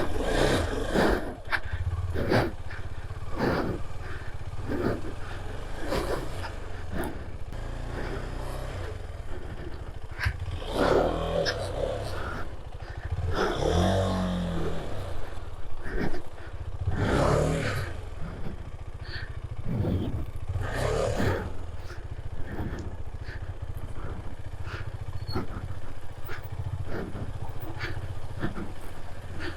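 Single-cylinder engine of a KTM 250 Adventure motorcycle running as it is ridden over a rough off-road track, with frequent knocks and rattles from the bike jolting over bumps. The engine note rises and falls once about halfway through.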